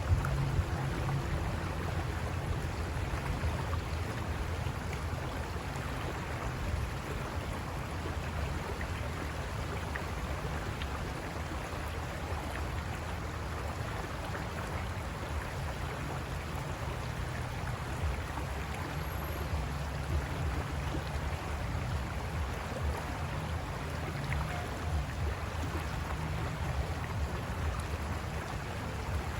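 River water rushing over rocks, a steady unbroken wash with a deep low rumble underneath.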